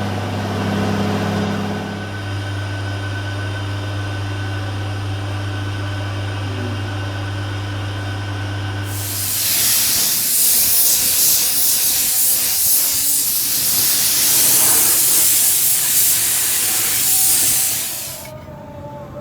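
A steady low hum, then about nine seconds in a loud, even hiss of paint being sprayed for about nine seconds, cutting off sharply near the end.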